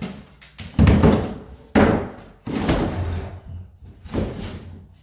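Heavy wooden bangs and thuds, about four in a few seconds, each with a short rattling tail: a wooden cabinet being knocked and wrestled loose.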